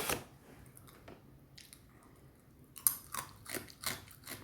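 Someone chewing and crunching food close to the microphone, mostly quiet at first, then a run of irregular crunches in the second half.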